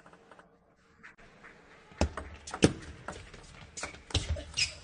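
A table tennis rally: the ball clicks sharply off the rubber bats and the table in an irregular run of about a dozen hits, starting about two seconds in, with low thuds of the players' footwork under some of the strikes.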